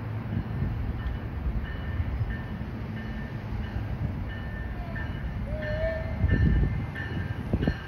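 NJ Transit electric commuter train approaching the station, a steady low rumble of wheels on rail with a short high tone repeating through it. The rumble swells louder a few times near the end.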